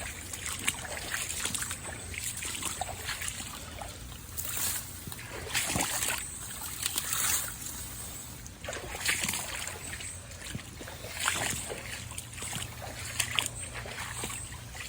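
Splashing in a shallow creek, irregular surges about every second or two over the trickle of running water.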